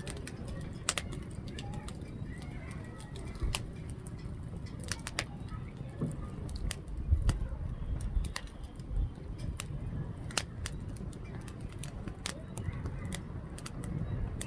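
Wood fire burning in a fire pit, crackling with many sharp irregular pops over a low steady rumble.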